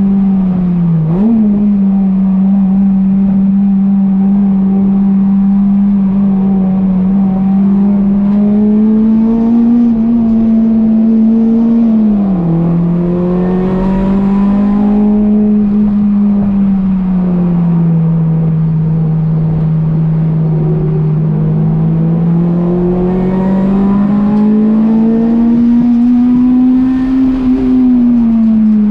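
Acura RSX's four-cylinder engine running at high revs through a track lap, heard from inside the car. The engine note stays high and sags and climbs slowly, with a quick dip and recovery about a second in and a sharp drop about twelve seconds in.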